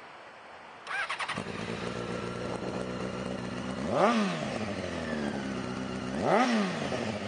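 Honda CBR600F4i inline-four motorcycle engine with a Yoshimura aftermarket exhaust, cranked on the electric starter about a second in and catching almost at once, then idling steadily. It is revved in two short throttle blips a couple of seconds apart, the pitch rising and falling back to idle each time.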